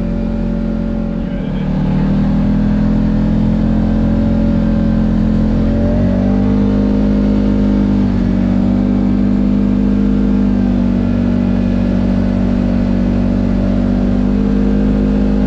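Kawasaki Teryx KRX side-by-side's parallel-twin engine running steadily while driving, its pitch and level stepping up about two seconds in and shifting again around six seconds in.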